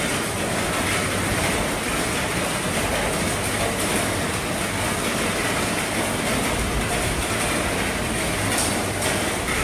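Heavy rain falling on an RV's roof, a steady dense patter with no breaks.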